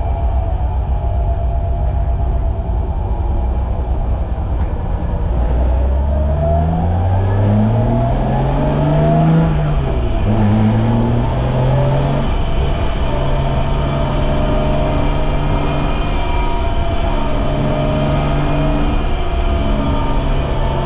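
BMW E30's M20B25 straight-six engine under way: it pulls low at first, then the revs climb smoothly, drop sharply about ten seconds in, and hold steady at higher revs for the rest of the time.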